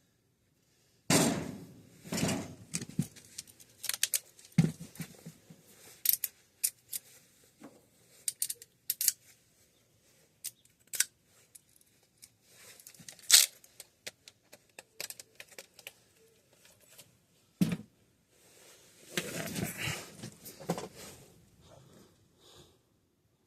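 Irregular sharp clicks and knocks with stretches of rustling: hands working among metal equipment and tools.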